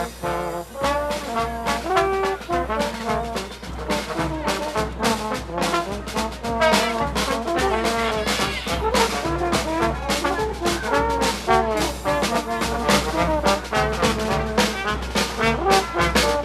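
Brass music, with trombones and trumpets playing a tune over regular drum beats.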